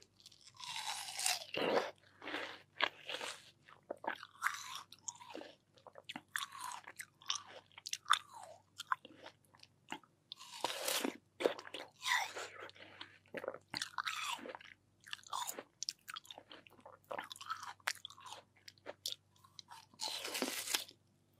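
Crisp watermelon bitten and chewed close to the microphone: a run of irregular crunching bites and juicy chewing, with bigger bites about a second in, around the middle and near the end.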